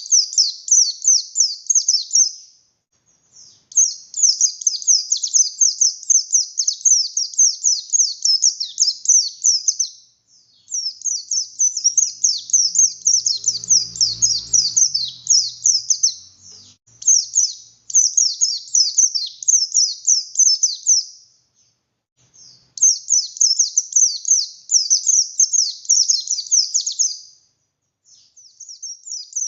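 A pleci buxtoni white-eye singing in long, fast, high-pitched chattering bouts of a few seconds each, with short pauses between them. A brief low rumble comes about halfway through.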